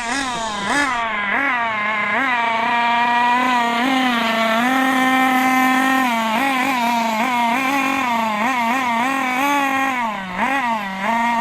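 Small two-stroke glow (nitro) engine of a 1/8 RC buggy, an RC Mix21 .21, buzzing while its throttle is blipped: the pitch rises and falls about once a second, holds steady for a stretch around the middle, then dips again near the end.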